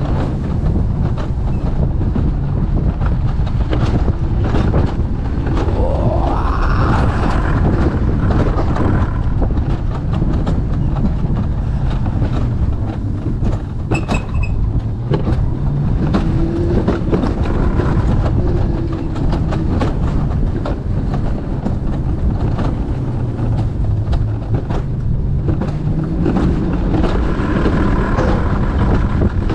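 Alpine coaster sled running down its metal rail track: a steady rumble and clatter of the wheels on the rail, with a rising whine about six seconds in.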